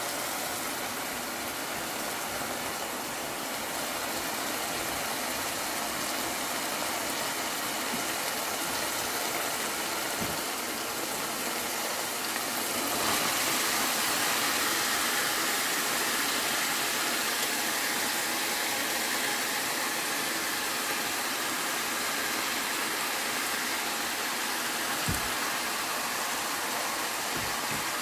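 Spiced dried shrimp sizzling steadily in oil in a stainless steel pan; about halfway, the sizzle grows louder as strips of eggplant and potato are tipped into the hot pan. A couple of soft knocks, from the spoon or the pan, come about ten seconds in and near the end.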